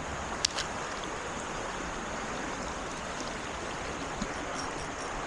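Creek water running steadily, an even rushing hiss. Two sharp clicks land about half a second in.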